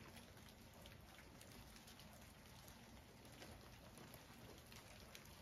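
Light rain falling, faint, with scattered small drip ticks.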